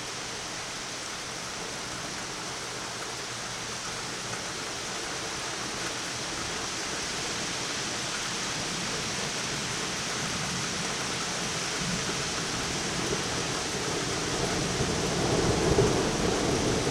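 Heavy thunderstorm rain falling steadily and slowly getting louder. Thunder rumbles in low near the end, swelling to a peak.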